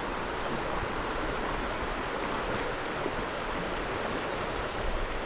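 River water rushing steadily over a shallow run, an even hiss of flowing water.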